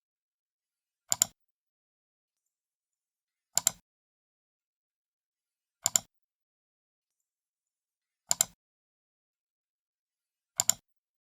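Computer mouse left button clicked five times, about every two and a half seconds, each click a quick double snap of press and release, with silence in between.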